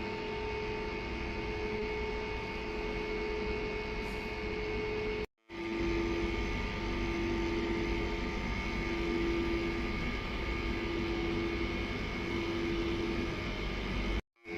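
Steady running noise and hum of a narrow-gauge electric railcar, with several steady tones over a low rumble. The sound breaks off into silence twice, very briefly.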